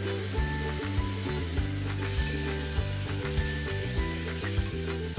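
Chopped tomato sizzling as it fries in mustard oil and spice paste in an aluminium pressure cooker, stirred with a wooden spatula. Background music with a steady beat plays under it.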